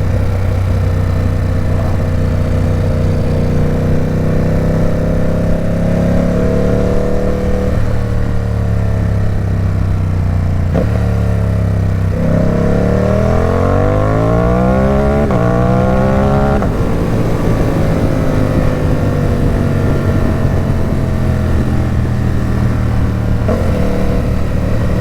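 Ducati Supersport 950 S's 937 cc Testastretta L-twin, heard through an aftermarket Competition Werkes exhaust while riding. The engine pulls with a slowly rising pitch and drops back about eight seconds in. From about twelve seconds it revs up hard through a gear change, then the revs fall off about sixteen seconds in and it settles to a steady cruise.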